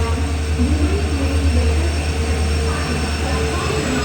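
Train running on rails: a steady, heavy low rumble with a rapid pulsing.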